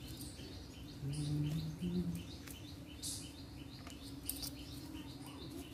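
A small bird chirping over and over in short high notes, about three a second, over a faint steady hum. A brief soft scrape about three seconds in, from the blade working the snake gourd.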